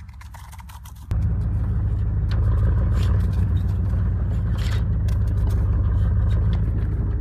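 Truck driving, a loud low rumble that comes in suddenly about a second in, with scattered clicks and scraping on top.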